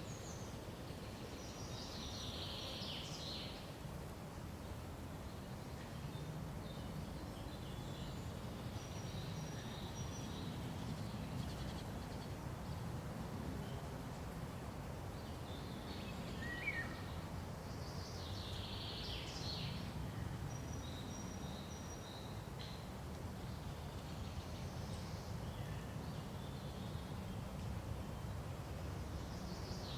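Forest ambience: a steady low rumble under scattered bird calls. A burst of chirping comes about two seconds in, again past the middle and at the end, with short thin high whistles between.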